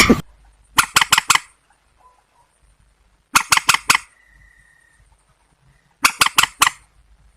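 Calls of waterbirds of the rail family, the trích ré and the cuốc (white-breasted waterhen): groups of four or five sharp, harsh notes repeat about every two and a half seconds, and a single loud call sliding downward comes right at the start.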